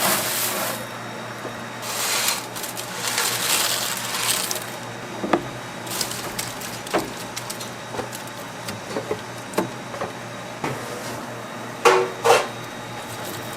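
A series of light knocks and clinks of handled objects, with a few hissing rushes in the first four seconds and two louder clinks near the end.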